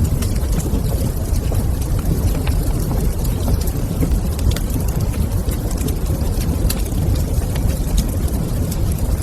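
Wood fire crackling in a fireplace: frequent small, irregular crackles and pops over a steady low rumble.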